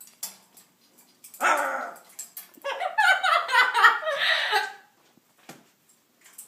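Yellow-naped Amazon parrots squabbling with harsh, bark-like calls: one call about a second and a half in, then a quick run of short calls lasting about two seconds.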